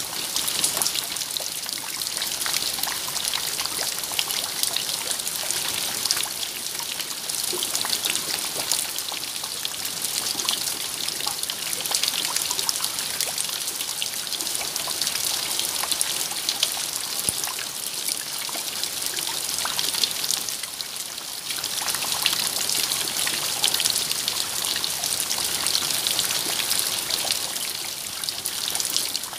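Steady rain falling: an even hiss with many small drops hitting close by.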